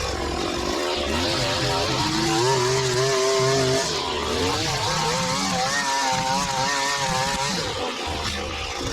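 Small petrol engine of a handheld lawn tool running under load, its pitch wavering up and down and shifting as the throttle and load change.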